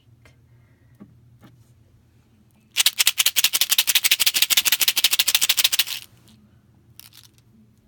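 A&W root beer shaken hard in its container: a rapid, even rattle and slosh that starts about three seconds in and stops about three seconds later.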